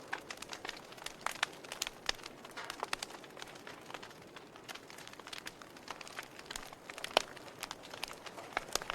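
Wood fire crackling: irregular sharp pops and snaps, several a second, over a soft hiss, with one louder pop about seven seconds in.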